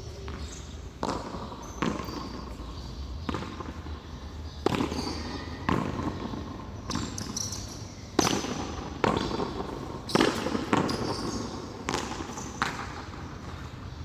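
Frontón handball rally: a ball slapped by hand, striking the frontón wall and bouncing on the court, as sharp, ringing hits about once a second at an uneven pace.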